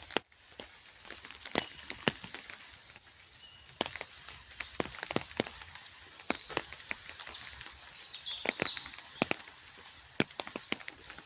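Rain falling in a park: a steady hiss with irregular sharp drops ticking close by. Short bird chirps come through a few times.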